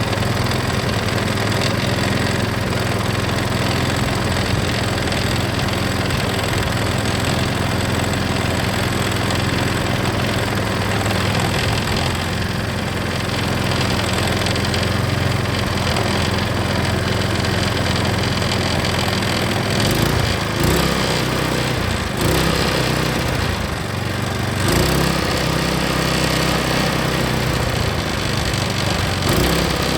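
Small gasoline engine of an old Champion water pump running steadily on its own tank after years of sitting locked up. Its speed shifts a few times about twenty seconds in.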